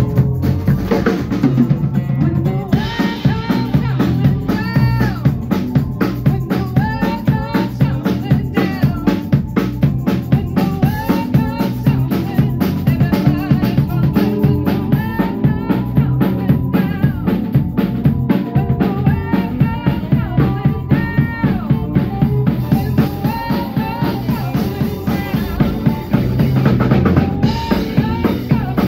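A band playing music: a drum kit keeping a steady beat with snare and bass drum, under a lead line of bending, sliding notes.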